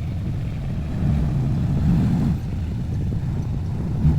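Four-wheel-drive vehicle's engine running at low revs under load as it works up an off-road track, a steady low rumble that swells slightly between about one and two seconds in.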